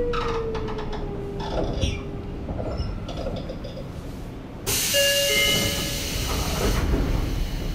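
Sotetsu 8000 series electric train running, its Hitachi IGBT-VVVF inverter whine falling steadily in pitch. About five seconds in, a sudden louder rushing of wheels and track sets in, with brief high squealing tones.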